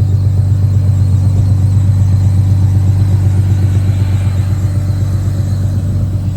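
A car engine idling loudly close by, a deep steady rumble with a fast even throb from the exhaust.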